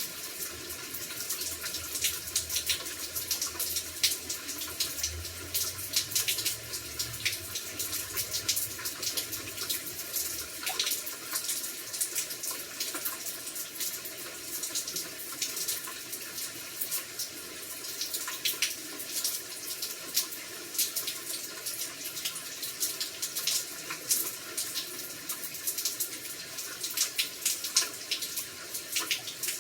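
Rain falling steadily, with many individual drops tapping sharply and irregularly; the downpour has eased and is no longer heavy.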